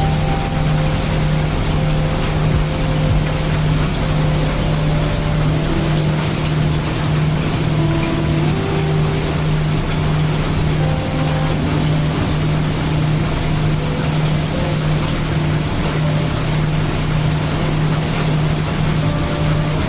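Heavy rain sound mixed with brown noise: a dense, steady hiss of rain with a constant low hum underneath.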